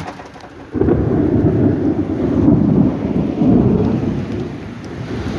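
Rainstorm: rain falling, with a loud low rumble that sets in suddenly about a second in and keeps going.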